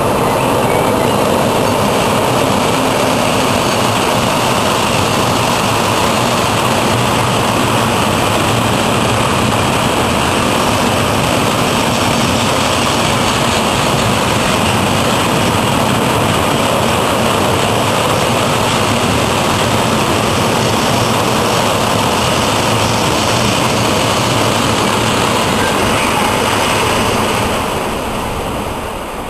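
Loud, steady rolling noise of a long freight train of tank and covered wagons running past close by, the wagon wheels on the rails. It fades out near the end as the last wagon goes by.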